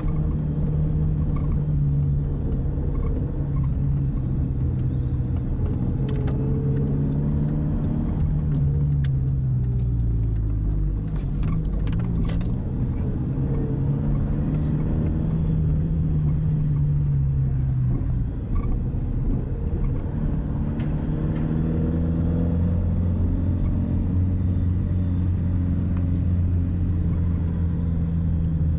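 Car engine running while driving, its pitch rising and falling several times as the car accelerates and eases off.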